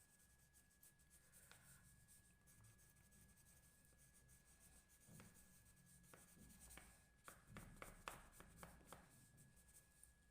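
Faint scratching of an oil pastel being stroked across paper to shade, with a run of short, sharper strokes in the second half.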